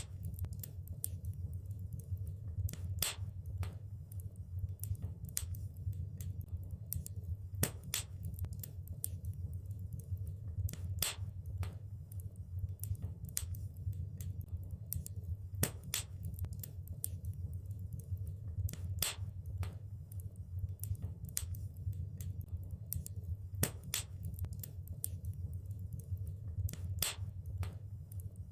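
Wood fire crackling in a fireplace: sharp, irregular pops and snaps, a few of them loud, over a steady low rumble of the burning fire.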